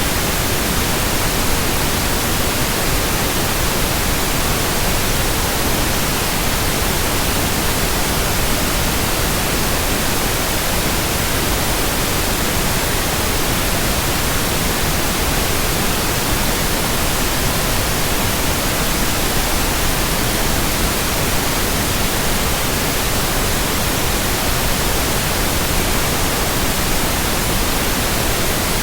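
Steady white noise: an even hiss spread across low and high pitches alike, unchanging, with no rhythm or separate sounds.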